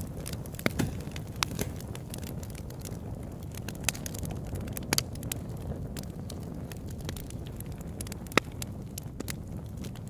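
Log fire burning in an oil-drum fire pit, crackling with irregular sharp pops over a low steady rumble; the loudest pop comes late on.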